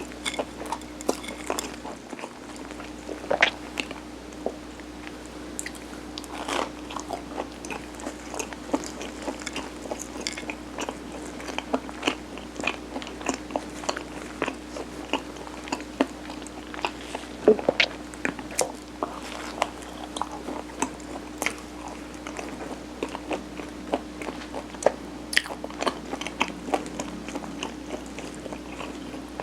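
Close-miked chewing and biting of mung bean sirutteok, a steamed Korean rice cake: frequent short mouth clicks, several a second, over a steady low hum.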